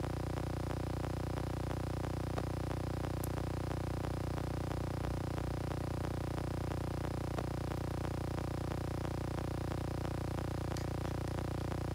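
A steady hum made of several held tones, with faint ticks about five times a second.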